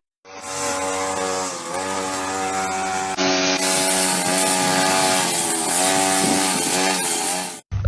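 A motor running steadily with a buzzing tone; its pitch dips briefly a few times.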